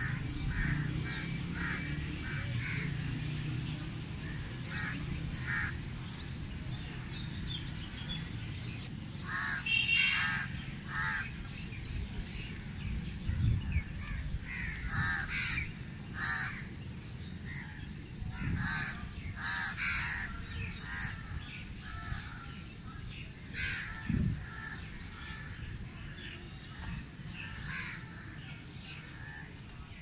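Birds calling repeatedly in many short calls, loudest about ten seconds in and again through the middle of the stretch, over a steady low rumble.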